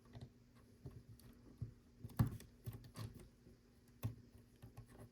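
Lego bricks being handled and pressed together: scattered small plastic clicks and taps, the loudest about two seconds in and again about four seconds in.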